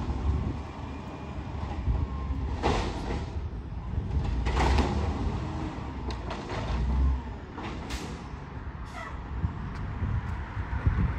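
Garbage truck's diesel engine running with a low rumble, broken by several short air hisses and clanks.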